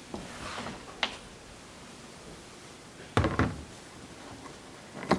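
A few knocks and thumps: a sharp knock about a second in, a heavier thump about three seconds in, which is the loudest, and another sharp knock near the end.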